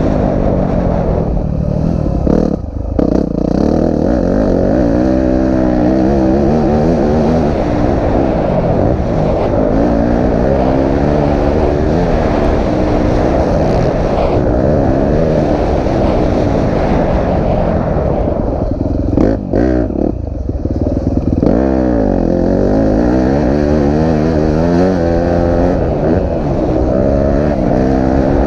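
A 250cc four-stroke motocross bike engine under hard riding, its pitch climbing and falling again and again as it revs through the gears and throttles on and off. The throttle is briefly chopped twice, a couple of seconds in and again at about two-thirds of the way through. It is heard close up, from a camera mounted on the bike.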